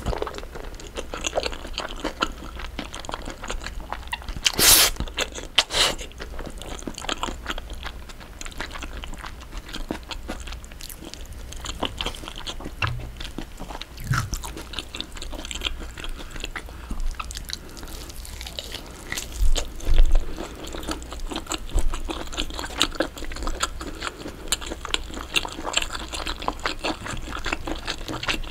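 Close-miked chewing of a big mouthful of cream pasta: a steady run of wet mouth clicks and smacks, with a couple of louder smacks about five seconds in.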